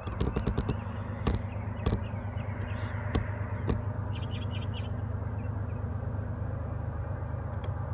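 Low, steady rumble of the approaching Auto Train's diesel locomotives heard from far down the track. A few crunching steps on gravel ballast come in the first second or so, and insects chirp faintly throughout.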